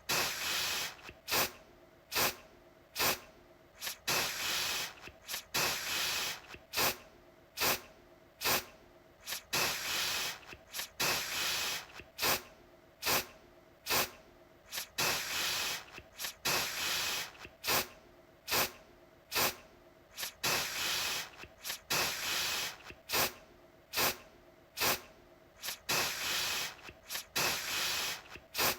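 Aerosol deodorant can spraying in repeated bursts of hiss: quick short puffs mixed with longer sprays of about a second, one after another.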